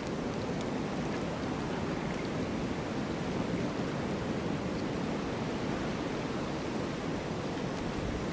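Snow storm wind, a steady rushing noise with a few faint ticks.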